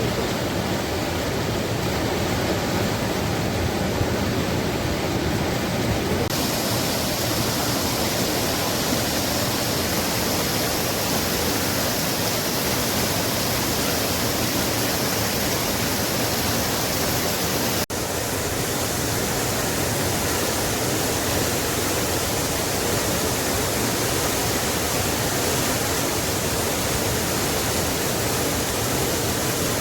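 Floodwater rushing after heavy rain: a loud, steady noise of flowing water, broken by a brief dropout a little past halfway.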